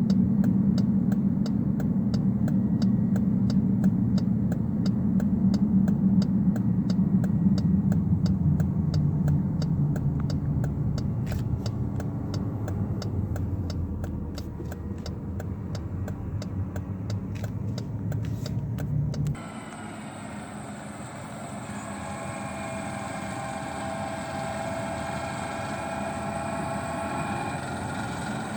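John Deere 9610 combine running, a loud low engine rumble with a steady, rapid clicking over it. About two-thirds through, the sound cuts to a quieter machine hum with wavering whining tones.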